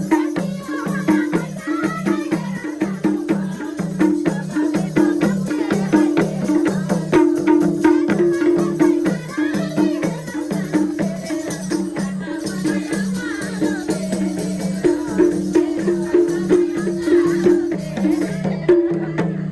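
Instrumental break of Nepali dohori folk music: repeated low notes pulse in a steady beat, with quick shaken percussion over them.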